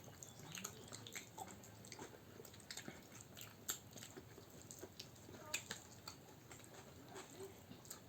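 Faint chewing and mouth clicks of people eating chicken biryani and kebab. Small irregular smacks and clicks.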